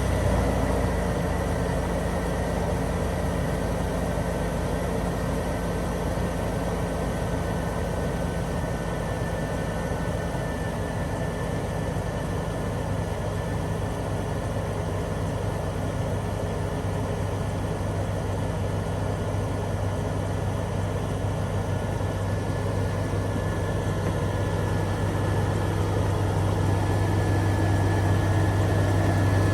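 Jeep Cherokee XJ engine running steadily with a low hum, growing a little louder near the end.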